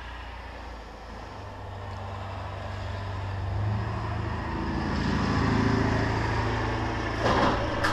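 Chain-drive garage door opener motor running with a steady low hum, growing louder over the first few seconds as it drives the door down.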